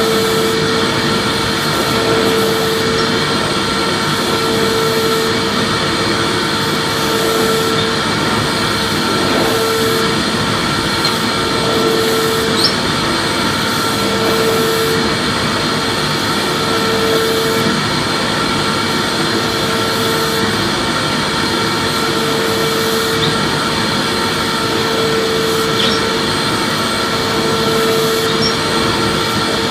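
Vacuum cleaner running steadily, a constant motor whine and airflow noise, with one tone in it that swells and fades about every two and a half seconds.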